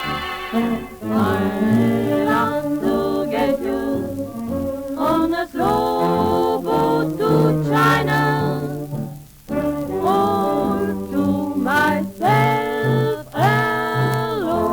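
Dance orchestra playing a medium-slow swing number, with a vocal group singing over it.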